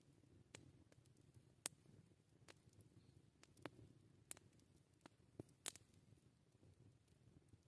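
Campfire of burning wood crackling quietly: irregular sharp snaps and pops, roughly one or two a second, over a soft low rumble of the flames.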